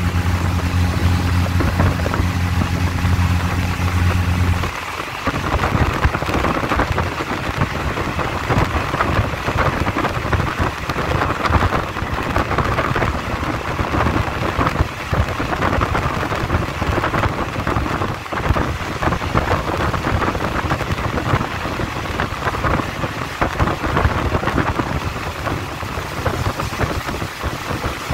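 Passenger train running along the track, heard through an open carriage window as a steady rushing rumble of wheels and air. A steady low drone under it stops suddenly about five seconds in.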